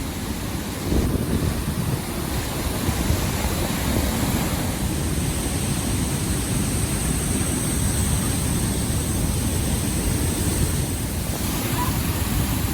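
Steady rushing roar of Niagara Falls' water crashing down, with wind buffeting the microphone.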